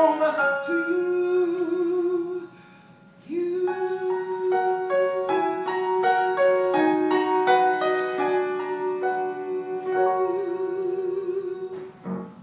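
The end of a song: a voice holds a long wavering note over piano chords. The music drops out briefly about two and a half seconds in, resumes with the held note, and fades away near the end.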